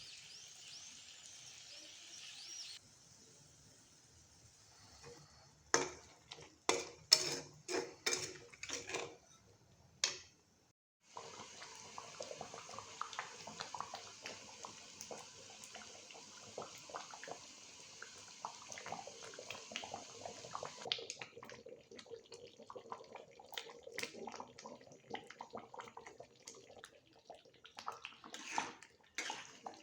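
Kitchen cookware sounds: a quick run of loud clanks of pots, pans or utensils, then a steady hiss with scattered clinks of utensils against pans and dishes.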